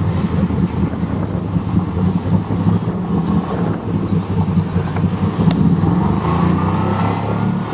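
1988 Chevrolet pickup's engine running hard under throttle as the two-wheel-drive truck pushes into deep water and gets swamped, with wind buffeting the microphone.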